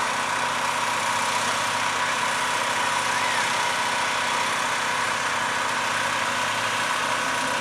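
Engine running steadily at an even pitch, a constant hum with a faint steady whine.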